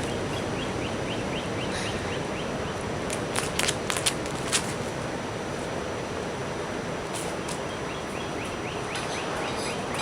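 Steady outdoor beach background noise, with a run of quick, high, short chirps twice, near the start and again near the end, and a cluster of sharp clicks in the middle.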